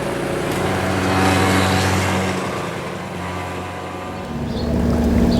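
A road vehicle's engine hum swelling and fading as it passes. About four seconds in, a different, louder and steadier engine drone cuts in abruptly.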